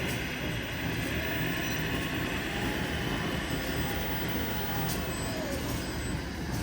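Radio-controlled truck running, a steady rumble with a faint whine that rises and falls a few times.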